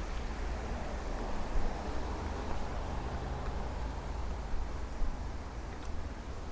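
Strong wind gusting over the microphone, a low buffeting rumble with a hissing rush that swells about two seconds in.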